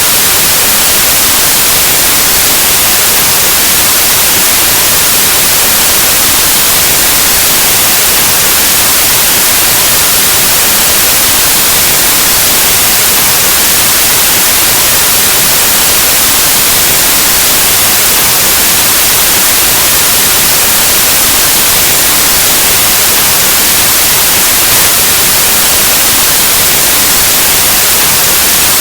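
Loud, steady white noise: an even hiss like analog TV or radio static, unchanging throughout.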